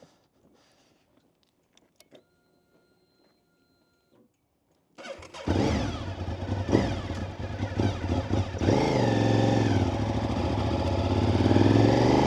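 Honda VTR SP2's 1000 cc V-twin, on aftermarket silencers, cranked on the starter and catching about five seconds in, then running with throttle blips and rising revs. Before it starts there are a few near-silent seconds with a faint steady whine.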